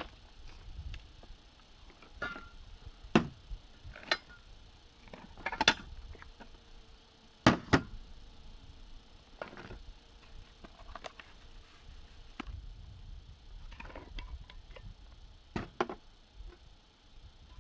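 Scattered clicks and knocks at irregular intervals, the loudest about three, five and a half and seven and a half seconds in, over a faint low background rumble.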